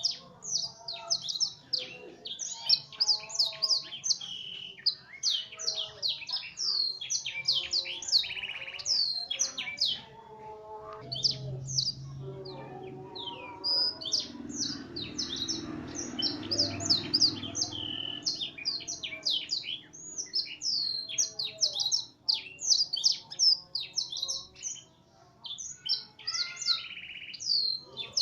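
F1 canary singing a rapid, loud, continuous song of quick sweeping notes and trills, full of phrases learned from a blackthroat (black-throated canary). The song pauses briefly about a third of the way in, while a lower hazy noise sounds, and then resumes.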